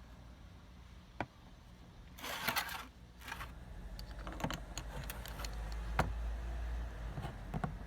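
Small hard parts clicking and clattering as they are handled, with a single sharp click about a second in, a brief scraping rattle about two seconds in, and a run of light irregular ticks in the second half.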